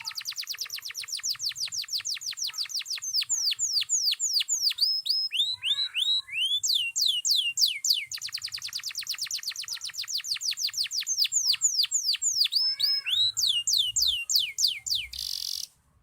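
Canary of the long-singing 'loper' type in continuous song: long, fast trills of falling whistled notes, broken by slower, deeper falling sweeps and lower chirps, with no pause. A short burst of hiss near the end.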